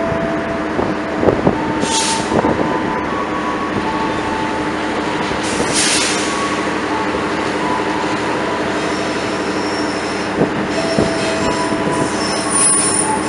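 Train moving along the track, its wheels squealing against the rails in shifting high tones over a steady running noise, with a few sharp knocks from the wheels and track and two short hisses about 2 and 6 seconds in.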